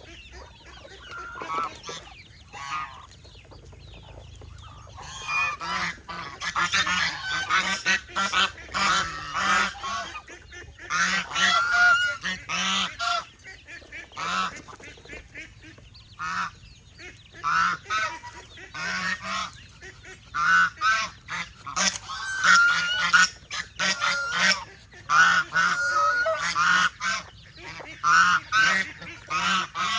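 Domestic geese honking repeatedly, several birds calling over one another in bursts of harsh, pitched honks, quieter for the first few seconds.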